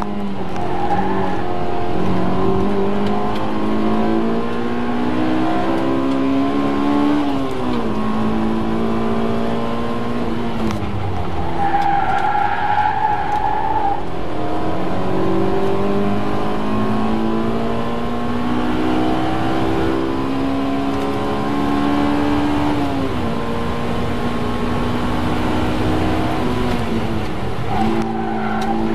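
Honda S2000's four-cylinder engine heard from inside the cabin, pulling hard at high revs and rising in pitch, with the pitch dropping sharply several times as the throttle is lifted or a gear is changed. The worn tyres squeal briefly in a hard corner about twelve seconds in and again near the end.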